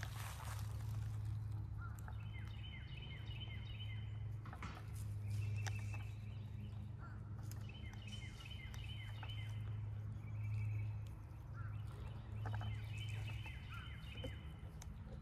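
A bird calling in short, quick series of repeated high notes, four times over, above a steady low hum.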